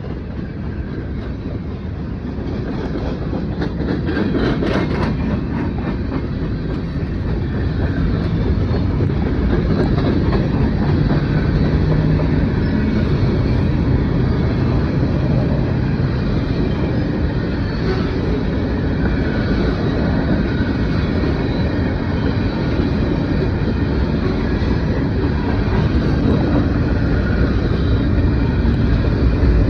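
Norfolk Southern mixed freight train rolling past: a steady rumble of wheels on the rails that grows louder over the first several seconds and then holds.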